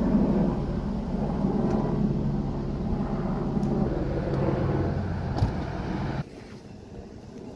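Steady motor vehicle engine and road noise that cuts off abruptly about six seconds in, leaving a much quieter background.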